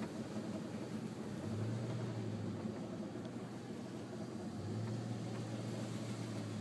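Car engine running as the car rolls slowly, a steady low hum that swells a little twice.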